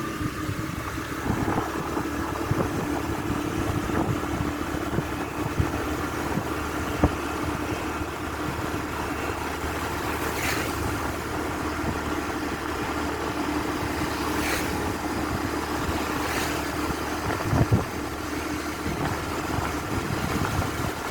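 An engine running at a steady speed under a noisy hiss, with a few sharp clicks now and then.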